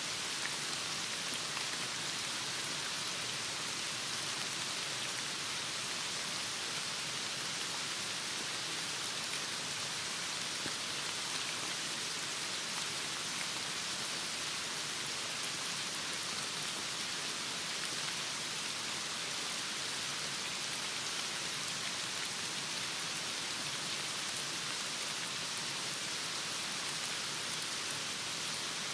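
Heavy rain falling steadily, an even hiss with a fine patter of drops.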